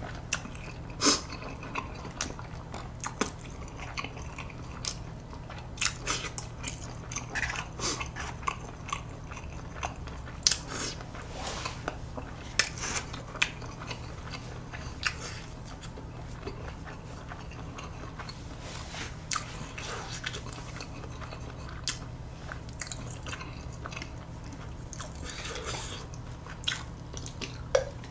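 Close-miked eating: chewing with many short, wet mouth clicks and smacks.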